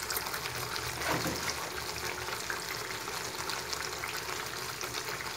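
Ground onion, fennel and turmeric masala frying in ghee in a pan: a steady sizzle with fine crackling.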